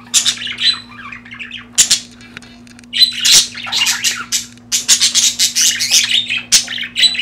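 Budgerigars chattering and squawking in rapid short chirps, sparse at first and then almost unbroken from about three seconds in, as the male courts the female in the breeding cage. A faint steady low hum sits underneath.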